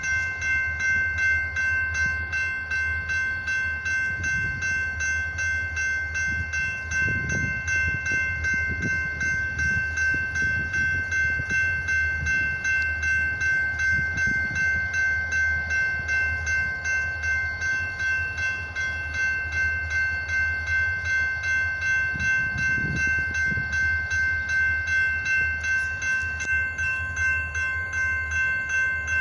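EMD GP diesel locomotives of a freight train running with a steady low rumble, over a steady high ringing tone whose loudness pulses evenly about twice a second.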